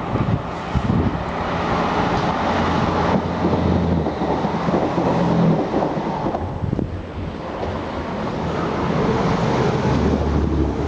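Diesel train running by, with steady low engine tones under a rumbling noise and wind buffeting the microphone.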